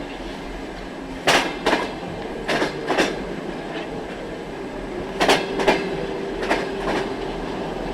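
Railway wagon wheels clacking over rail joints, in paired knocks about half a second apart that repeat every second or two, over a steady rolling rumble.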